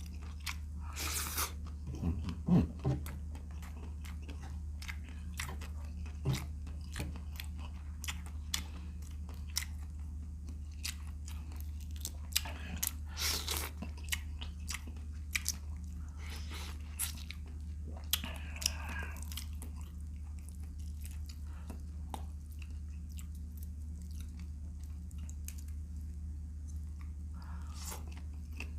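Close-up eating of vinegar-stewed shrimp: biting and chewing with crunching and small wet clicks, louder bites about two seconds in and again around the middle. A steady low hum runs underneath.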